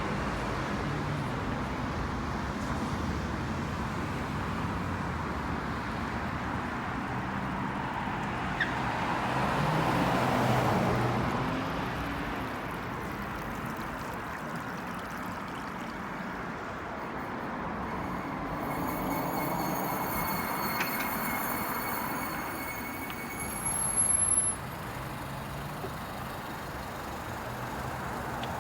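Street traffic noise: vehicles running and passing, with one passing louder about a third of the way through. A short high-pitched sound stands out near the end.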